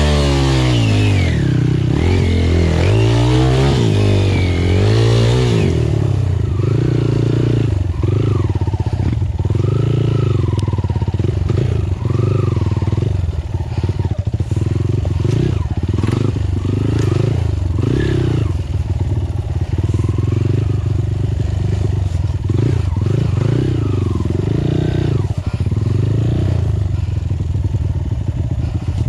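Dirt bike engine revving up and down several times over the first few seconds, then running at lower revs with the throttle worked on and off, with clattering knocks throughout.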